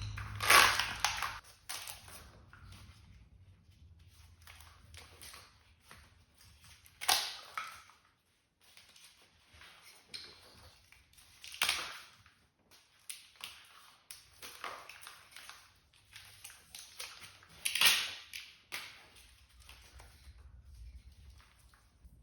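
An old automotive wiring harness being pulled apart by hand, its factory wrapping torn and peeled off the wires: irregular crinkly rips and rustles. The loudest rips come about half a second, seven, twelve and eighteen seconds in.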